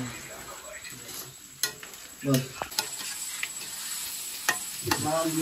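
Onions, garlic, ginger and chilli frying in oil in a cooking pan, with a steady sizzle while a spoon stirs them, clicking and scraping against the pan several times.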